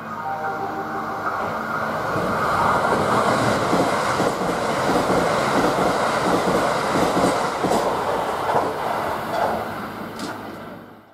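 Kintetsu 80000 series Hinotori electric express train passing through the station, its wheels clattering rapidly over the rail joints. The sound builds over the first two seconds, stays loud while the cars go by, then fades and cuts off at the end.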